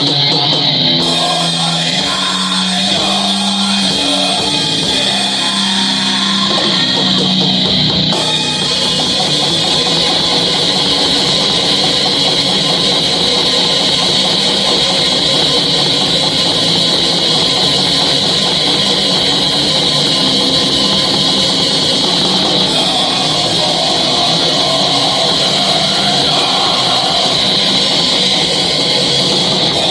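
A heavy metal band rehearsing, loud and continuous, with distorted electric guitars and drums. About eight seconds in, the sound grows fuller and brighter.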